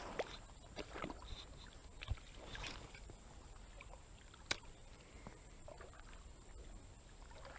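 Faint creek water sloshing, with a few small knocks and one sharp click a little past halfway.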